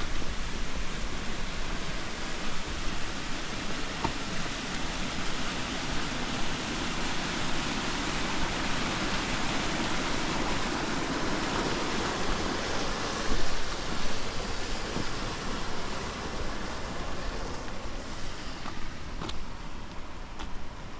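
Steady rain falling, an even hiss that swells for a few seconds midway.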